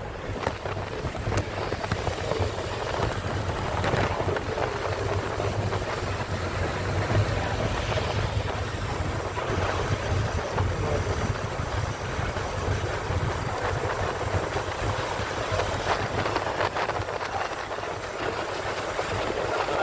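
Steady rumble and hiss of a moving vehicle heard from inside it: a constant low engine and road hum under a broad wash of wind and tyre noise.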